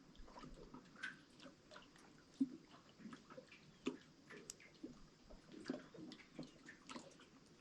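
Faint water ambience: small irregular drips and splashes, a few a second, with a louder plop about two and a half seconds in and another near four seconds.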